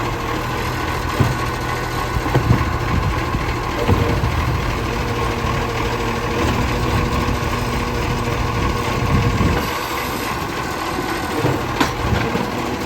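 Garbage truck engine running steadily at a low, even pace, with a few short knocks and clanks over it.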